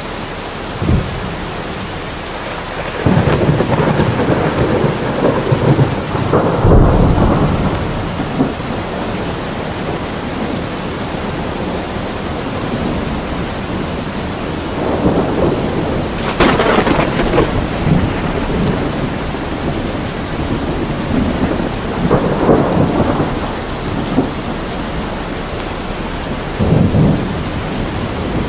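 Heavy rain falling steadily during a thunderstorm, with several rolls of thunder rumbling over it: a long rumble from about three to eight seconds in, more near the middle and toward the end, and a short sharp crack about a second in.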